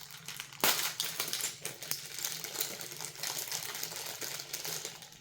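Plastic bag crinkling and rustling as it is opened and the items inside are handled, with a sharp crackle a little under a second in.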